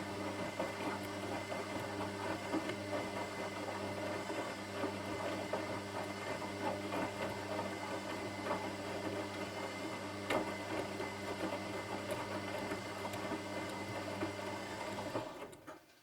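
Washing machine running: a steady motor hum with a busy mechanical rattle over it, which dies away near the end.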